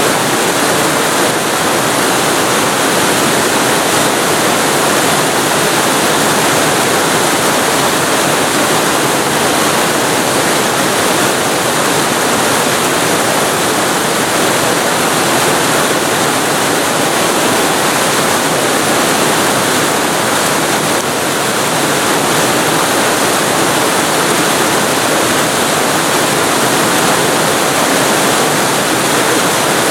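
Waterfall recorded at very close range: a loud, steady rush of falling water, with no pauses or changes.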